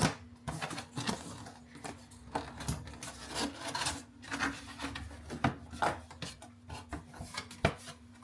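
A box and its packaging being opened and handled: irregular scraping, rubbing and rustling with small knocks.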